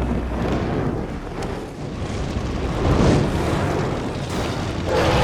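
Deep rumbling, crashing sound effect over a low musical drone, swelling to its loudest about three seconds in.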